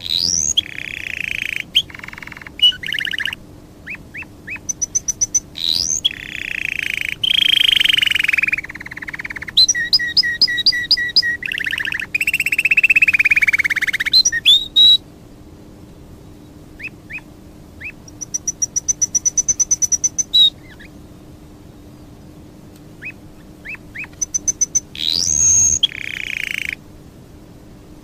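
A songbird singing: long warbling phrases, rapid high trills and rising whistles in bursts, with single short chirps between them. A faint steady hum runs underneath.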